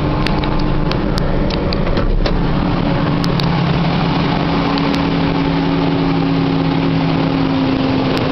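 1998 Ford Ranger's 4.0-litre V6 idling steadily just after a cold start.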